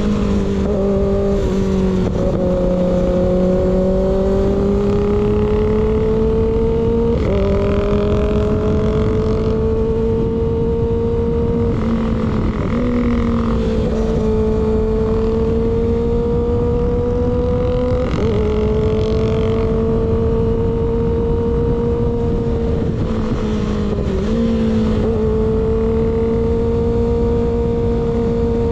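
Kawasaki ZX6R inline-four running at a steady cruise through a baffle-less M4 GP19 slip-on exhaust. Its note breaks briefly about every five to six seconds and then holds steady again, with wind rushing on the microphone.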